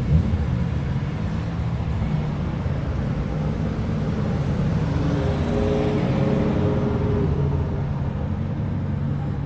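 Car engines running at low speed as cars roll past. One engine's note comes through more strongly about five to seven seconds in as it passes close.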